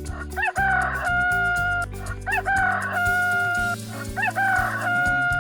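Rooster crowing three times, each crow a short rising start held out into a long steady note, over background music.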